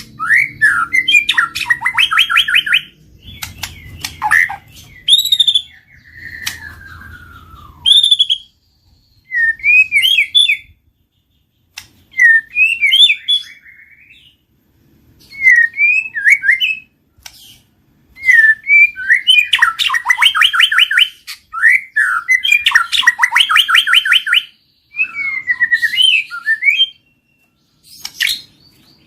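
White-rumped shama (murai batu) singing varied phrases of fast rattling trills and clear whistled notes, with short pauses between them. A long falling whistle comes a few seconds in.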